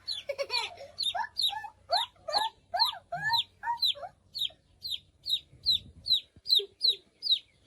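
Young chicks peeping: a steady string of short, high, downward-falling cheeps, about three a second. Lower chirps from other chicks are mixed in during the first half.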